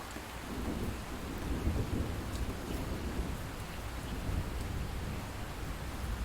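Light, steady rain with a distant roll of thunder that rises about half a second in, peaks over the next couple of seconds and slowly fades.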